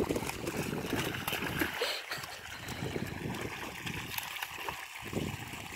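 Water splashing and running, with irregular small splashes and trickling.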